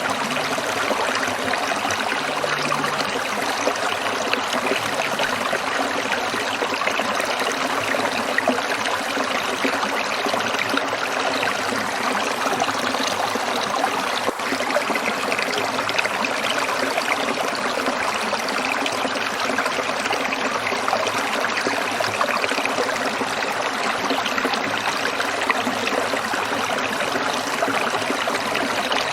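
Stream water trickling and splashing over rocks, a steady close-up rush with fine bubbling detail.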